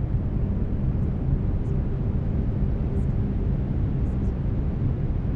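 Brown noise: a steady, deep, even rush weighted toward the low end. A faint steady binaural-beat tone runs underneath.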